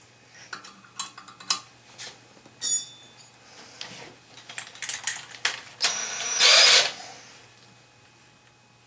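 Tools and metal hardware being handled during plumbing work: a string of clicks and clinks, one ringing briefly like dropped metal. A louder rough burst lasts about a second, about six seconds in.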